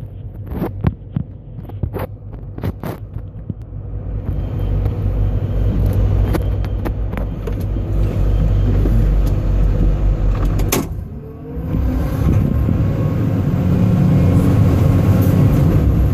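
Cat 320 hydraulic excavator's diesel engine running under working load with a steady low drone. A string of sharp clicks and knocks comes in the first few seconds, the engine builds up from about four seconds in, and it eases briefly about two-thirds through before pulling hard again.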